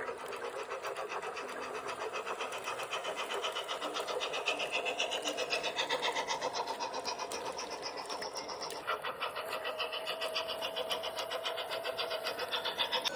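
LGB garden-railway steam locomotive model's digital sound decoder playing steam-engine chuffs through its small speaker, timed to the turning wheels: a fast, even chuffing rhythm. The sound changes abruptly about nine seconds in.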